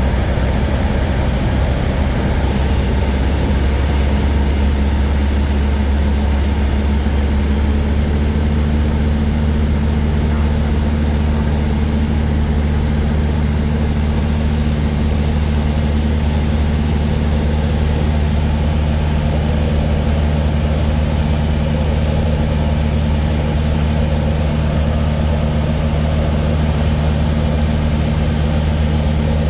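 Cessna 152's four-cylinder Lycoming piston engine and propeller running steadily in flight, a constant low drone whose note shifts slightly about four and eight seconds in.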